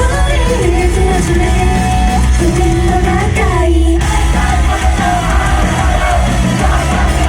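Live idol-pop performance: singing over loud pop-rock backing music with a steady beat, with shouts from the audience.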